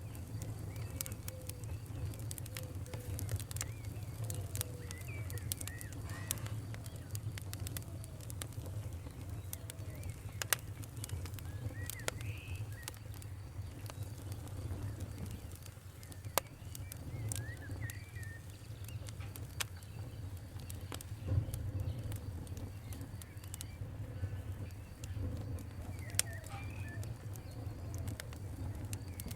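Campfire crackling, with irregular sharp pops over a steady low rumble of the flames, while birds chirp now and then in the background.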